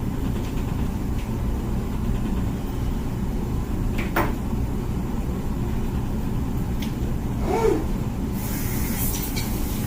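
Comfee dishwasher running its wash cycle: a steady low hum from the pump and the water. A sharp knock comes about four seconds in, a short clunk follows a few seconds later, and a burst of hiss comes near the end.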